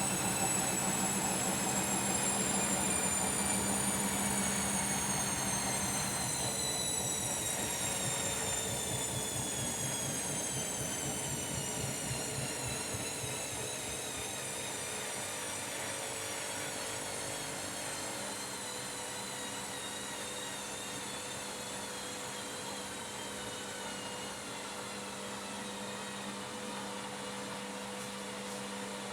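Washing machine drum and motor spinning down: a high whine slides slowly down in pitch over the machine's running hum as the level eases off.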